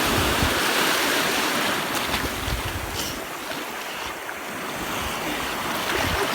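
Sea surf breaking and washing on the beach, with wind buffeting the microphone; the wash eases off around the middle and builds again near the end.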